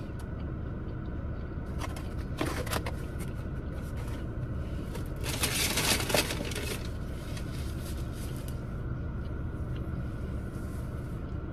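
A person chewing a bite of a crispy fried chicken sandwich, close to the microphone. There are two spells of crackly crunching or wrapper rustling, the louder one about halfway through, over a steady low hum.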